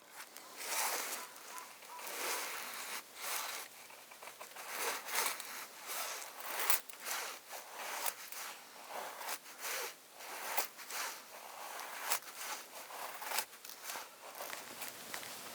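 Irregular rustling and scraping, broken by many short crackles and clicks.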